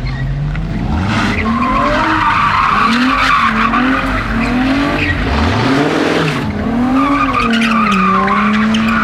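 A car engine revving up and down over and over while its tyres screech, as in a burnout or donut. The revs hold steadier near the end.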